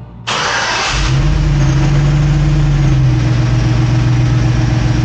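Pickup truck's V8 engine starting after an oil change: it catches suddenly about a quarter second in and runs at a fast idle, then settles to a slightly lower, steady idle about three seconds in.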